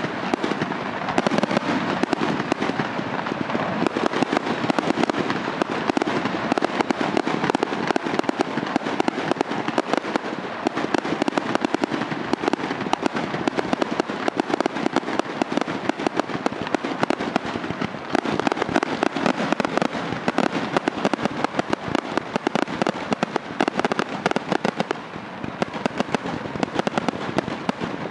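Fireworks display: a dense, continuous barrage of bangs and crackles, many per second, easing slightly near the end.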